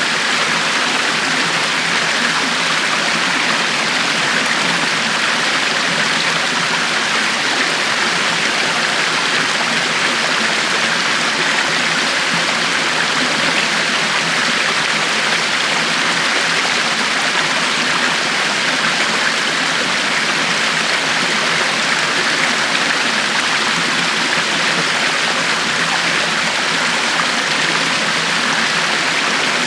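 River water flowing over rocks, a steady unbroken rushing and babbling with no change in level.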